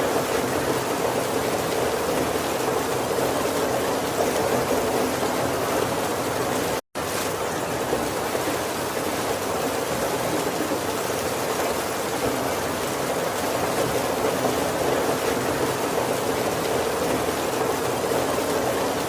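Heavy rain falling steadily on a roof, an even rushing patter with no thunder. It cuts out completely for an instant about seven seconds in, then carries on unchanged.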